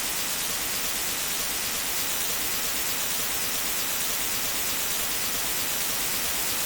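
Steady static hiss, an even white noise that does not change.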